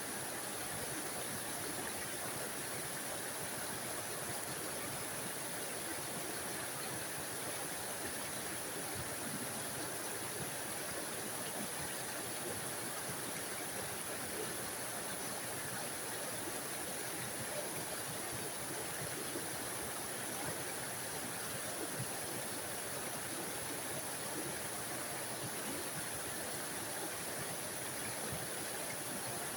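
Small forest waterfall: water spilling and splashing in a steady, even rush with no breaks.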